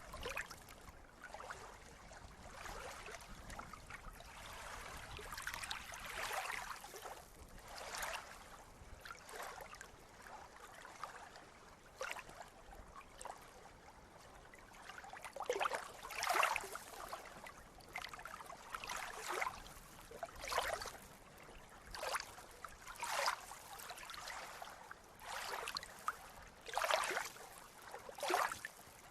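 Small sea waves lapping and splashing, a steady wash of water broken by short irregular splashes every second or two, which grow sharper in the second half.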